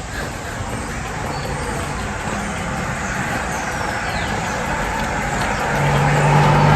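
Car on the move: steady road and engine noise, growing louder near the end with a low engine hum.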